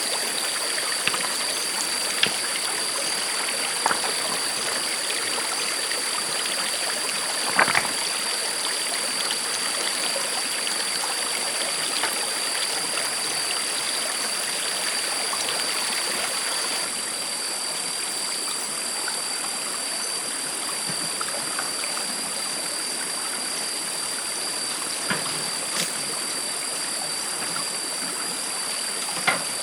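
Stream water flowing steadily over stones, with a few short knocks or splashes, the loudest about eight seconds in. A thin, steady high-pitched tone sits over the water.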